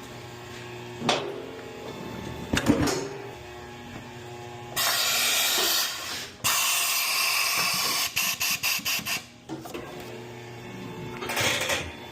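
Pneumatic air tool running in bursts: a couple of clanks, then two runs of a second or more each, then a string of about eight quick short bursts.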